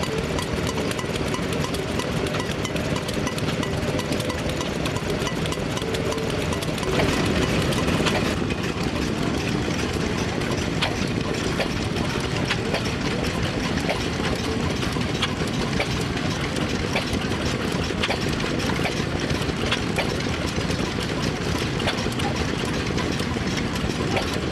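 Old engine-driven machinery running steadily, a continuous mechanical clatter with frequent small knocks. The sound shifts about seven seconds in, briefly louder.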